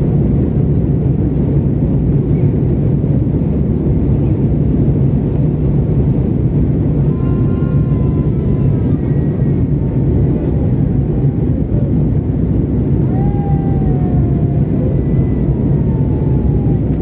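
Steady, low engine and airflow noise inside the cabin of an Airbus A320 airliner in flight. Faint high pitched calls come through it twice: a short one about halfway and a longer, falling one near the end.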